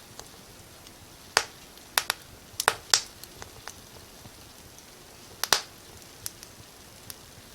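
Wood fire crackling: about ten sharp pops and snaps at irregular moments, clustered around two to three seconds in and again about five and a half seconds in, over a faint steady hiss.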